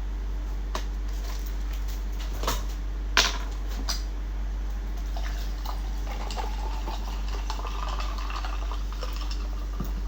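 Dishes and chopsticks being handled at a table: a few light clinks and taps, the sharpest about three seconds in, then softer wet handling and scraping sounds, over a low steady hum.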